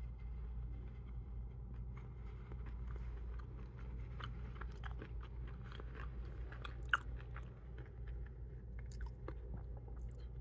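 A person chewing a crunchy granola cookie bar: many small crisp crunches, with one sharper crunch about seven seconds in.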